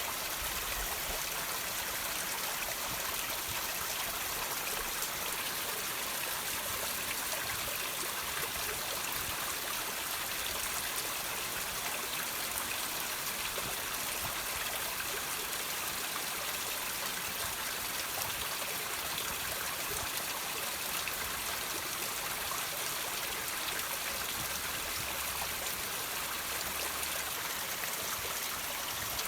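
Water trickling and dripping off rocks into a stream: a steady splashing hiss with many small drips.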